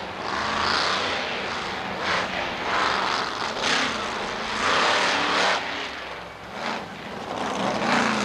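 Supercharged monster truck engine revving in repeated surges, loud and rough, rising and falling about once a second.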